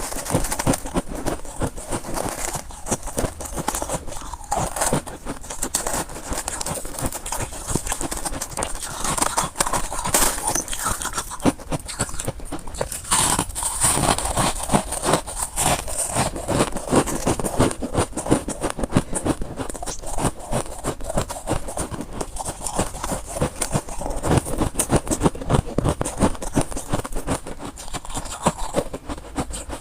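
Close-up crunching and chewing of soft white freezer frost ice: a steady run of rapid, crackling crunches with no pause.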